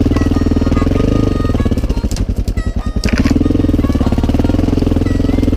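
Enduro motorcycle engine under way on a forest track. The throttle eases off about two seconds in, the engine note drops and chugs for about a second, then it pulls again.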